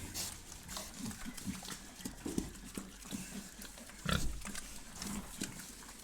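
Pig squalling in short calls at irregular intervals, with one louder call about four seconds in.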